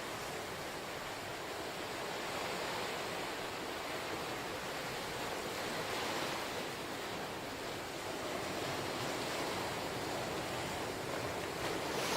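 Ocean surf washing onto the shore, a steady rush that swells and eases every few seconds.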